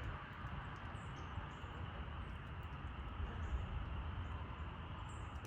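Outdoor background noise: a steady low rumble and hiss, with a few faint, short high bird chirps.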